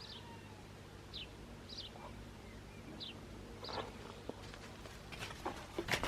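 Faint birdsong: short, high chirps that fall in pitch, one every second or so. Near the end, a run of clicks and rustling.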